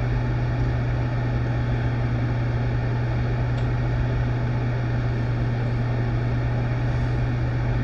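Steady low mechanical hum with an even rushing noise over it, unchanging throughout, like a fan or air-conditioning unit running.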